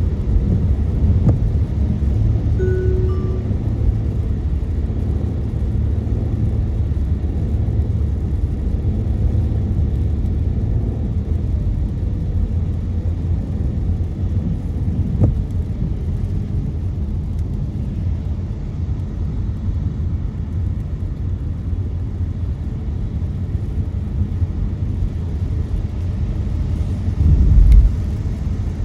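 Steady low road rumble of a car driving on rain-wet city streets, heard from inside the car. There is a brief beep about three seconds in and a louder low thump near the end, as from a bump in the road.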